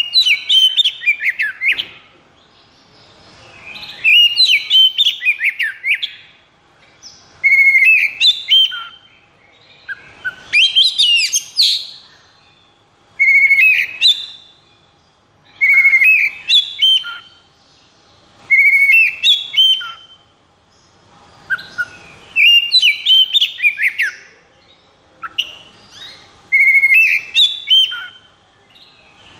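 Oriental magpie-robin (kacer) singing: short, varied phrases of quick rising and falling whistles, one every two to three seconds with brief pauses between.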